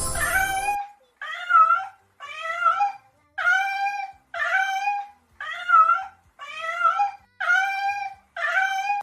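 An animal-call sound effect: the same short pitched cry is repeated eight times, about once a second, after a short jingle ends.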